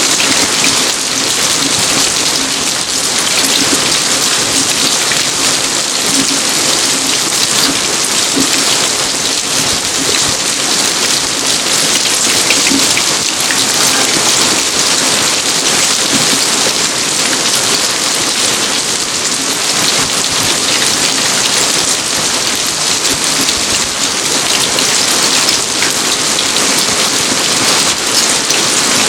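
Steady rain falling, a dense, even patter of drops that holds at the same level throughout.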